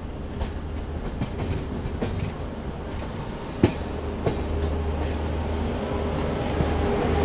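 Passenger train wheels rolling over rail joints and points as the train draws into a station, heard from the coach doorway: a steady run noise with scattered clicks and clacks and one sharp knock a little past halfway. The noise grows louder toward the end as a faint steady squeal creeps in.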